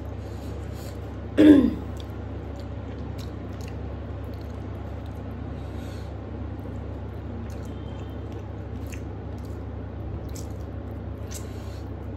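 Eating rice and curry by hand: faint chewing and small mouth clicks, broken about a second and a half in by one short, loud throat sound such as a throat-clear.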